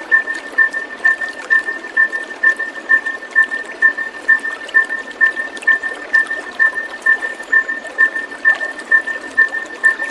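Bird-calming audio of steadily running water, overlaid with a short, evenly repeated pip at two fixed pitches, about twice a second.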